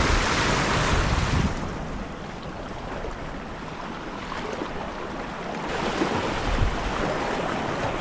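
Sea washing against shoreline rocks, louder for the first second and a half, easing off, then swelling again later on.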